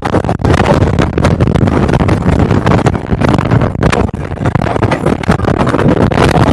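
Speedboat running at high speed, with heavy wind noise buffeting the microphone.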